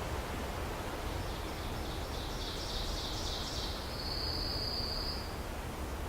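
A small songbird sings a short high song starting about a second in: a run of quick buzzy notes that ends in a thin, level high trill. Behind it is a steady rushing noise of wind and water.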